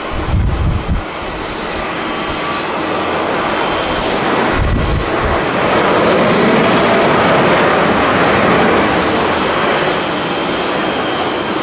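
Jet airliner engines roaring past, swelling to their loudest midway and then easing off a little. Gusts of wind thump against the microphone near the start and again about five seconds in.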